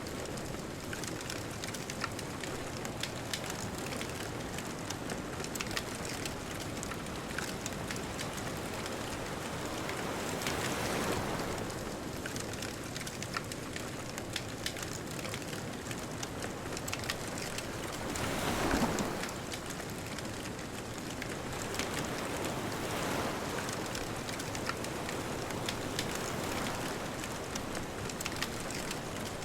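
Wood bonfire crackling with frequent small pops, over the rush of distant ocean waves that swell and break several times, the loudest about two-thirds of the way through.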